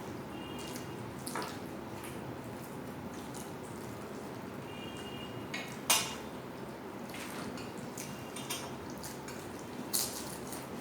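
Plates and utensils clinking during a meal: scattered light clicks and brief ringing from dishes, with a sharp louder clink about six seconds in and another near the end.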